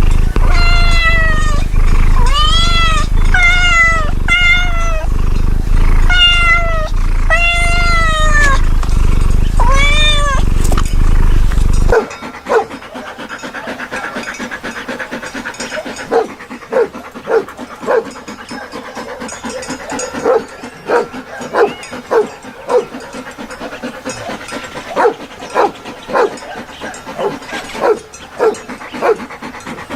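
A cat meowing again and again, about ten loud meows that rise and fall in pitch, over a steady low rumble. About twelve seconds in this cuts to a quieter dog panting, in quick short uneven breaths.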